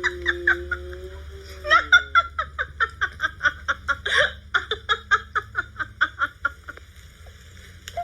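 A person laughing in a long run of quick, repeated bursts, about four or five a second, starting just under two seconds in and trailing off after about six seconds.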